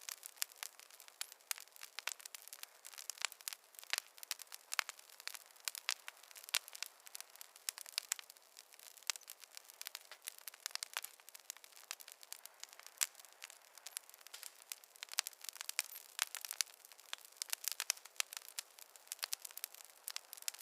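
Fireplace fire crackling: dense, irregular sharp pops and snaps over a light hiss, with no low rumble.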